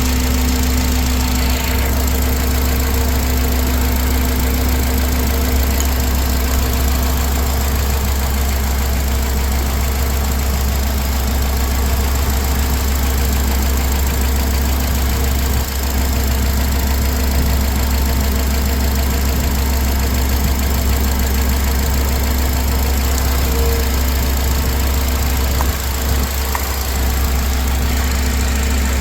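2004 Honda Accord engine idling steadily.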